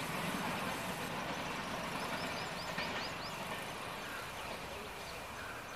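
Low, steady rumble of a distant train, easing slightly, with a quick run of about seven high chirps around two to three seconds in.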